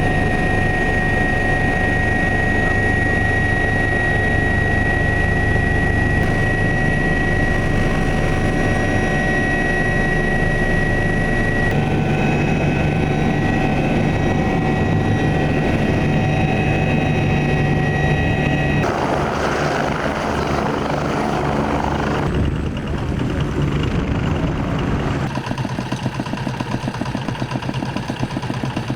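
Helicopter in flight: a steady high turbine whine over dense rotor and engine rumble. The sound changes abruptly a few times, and in the last few seconds a fast even pulsing of the rotor blades comes through.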